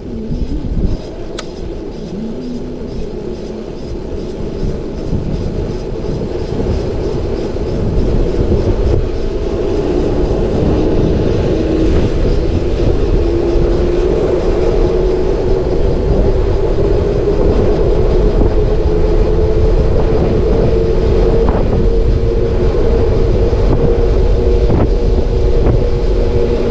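Motorcycle coasting downhill with its engine off: wind and rolling noise grow louder as it gathers speed, with a hum that rises slowly in pitch.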